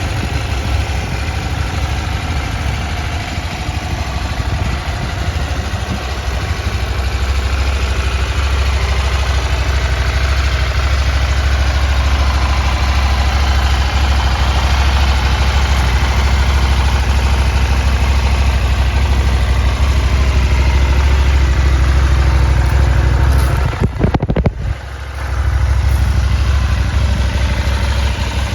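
KTM 790 Adventure's 799 cc parallel-twin engine idling steadily, with a brief dip in the sound about four seconds before the end before it carries on.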